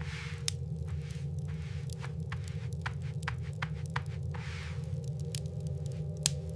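Steady low wind rumble with scattered sharp clicks and a few soft crunching swells.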